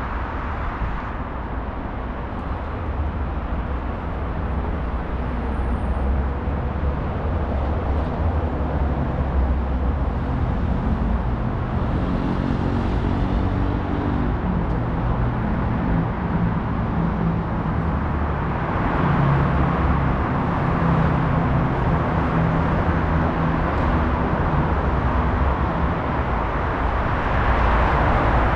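Steady road traffic noise with a low rumble. A heavier vehicle's engine hum stands out about halfway through and again later, and the traffic grows slightly louder toward the end.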